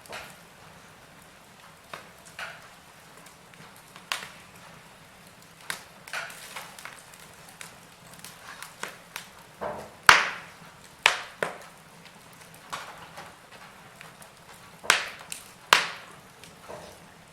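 Burning firewood crackling and popping, with irregular sharp cracks over a low hiss. The loudest pop comes about ten seconds in, and there are a few more strong ones near the end.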